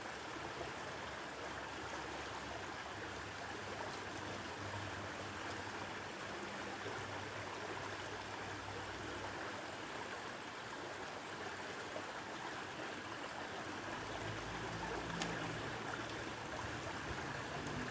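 Steady rush of flowing water, an even unbroken wash of noise.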